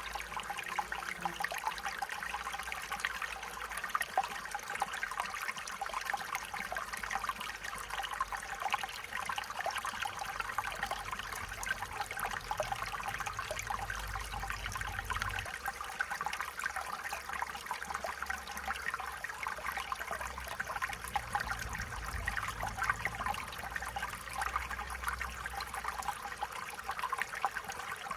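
Stream water running and trickling steadily over stones, a continuous babbling splash.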